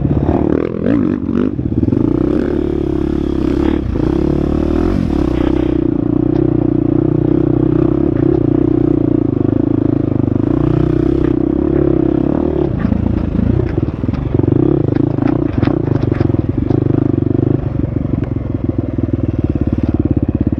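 Husqvarna FX 350 dirt bike's single-cylinder four-stroke engine running under way, its revs rising and falling with the throttle, with scattered knocks from the bike over rough ground.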